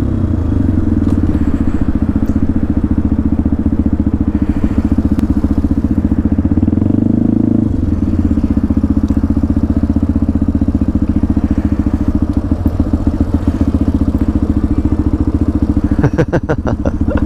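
Small motorcycle engine running with a steady, even firing rhythm as the bike rides and then sits at a stop; its note changes about halfway through.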